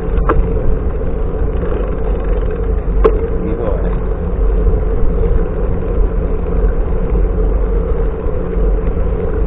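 Steady low rumble of wind and road noise on a microphone carried on a moving bicycle, with a couple of brief clicks.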